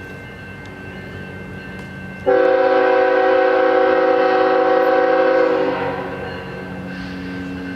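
Locomotive multi-chime air horn sounding one long blast, a chord of several pitches, that starts suddenly about two seconds in and fades out after about three and a half seconds, over the steady rumble of a train.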